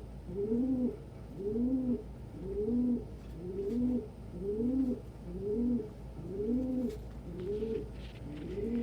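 Domestic pigeon cooing over and over, about one coo a second. Each coo rises and then falls in pitch.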